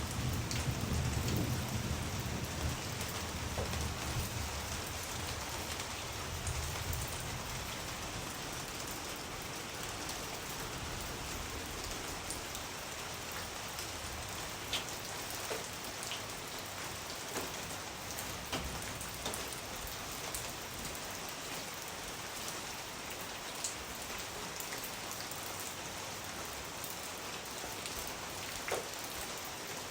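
Steady rain falling, an even hiss with the odd single drop heard clearly. A low rumble swells under it for the first several seconds, then dies away.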